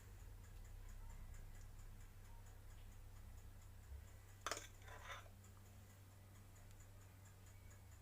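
Near silence: faint room tone with a faint, even ticking and a single click about halfway through.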